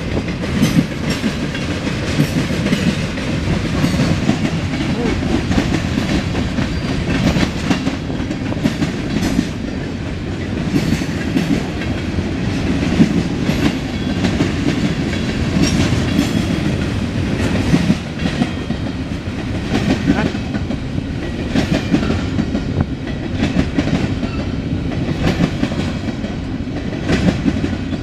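Freight cars of a CSX mixed freight train rolling past, a steady rumble with many sharp clacks of wheels over the rail joints.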